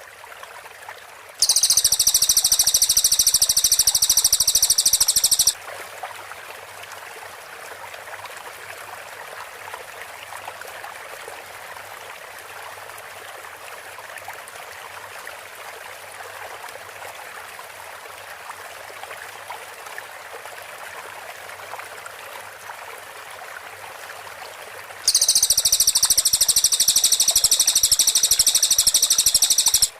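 Cililin bird song in its rapid, close-packed 'tembakan' style: a very high-pitched, rapidly repeated burst of notes lasting about four seconds near the start, then another about five seconds long near the end. Between the bursts there is only a steady background hiss.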